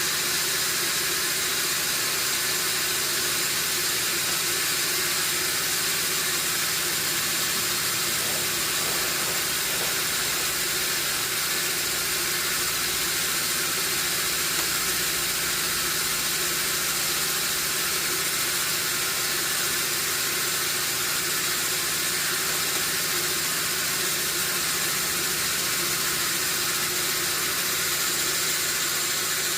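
Sawmill machinery running steadily: a constant hiss over a low, even hum, with no change through the whole stretch.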